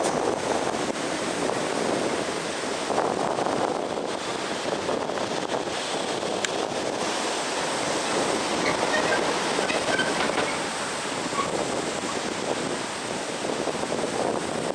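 Heavy typhoon-driven surf breaking continuously on a beach, with wind noise on the microphone.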